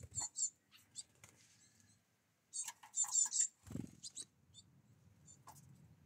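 Great tit calling with short, high chirps, scattered at first and then a quick cluster about two and a half seconds in. A soft low thump comes just after the cluster.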